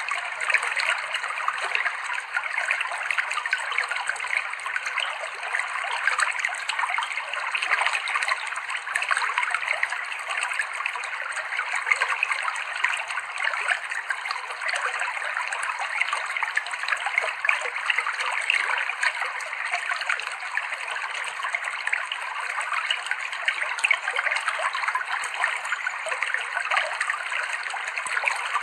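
Clear river water flowing and splashing over rocks, a steady bubbling with many small splashes.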